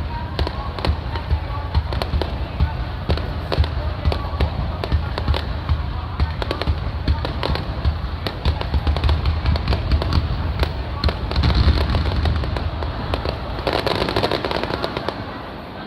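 Aerial fireworks bursting: deep booms over dense, rapid crackling, easing off near the end.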